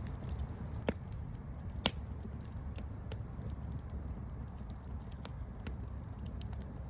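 Campfire crackling: a steady low rush under scattered sharp pops and snaps, the loudest two coming about a second in and just under two seconds in.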